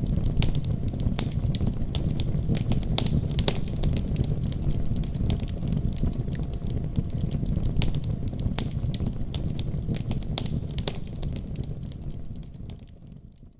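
Fire burning in a fireplace: a steady low rumble of flames with frequent sharp crackles and pops. The sound fades away near the end.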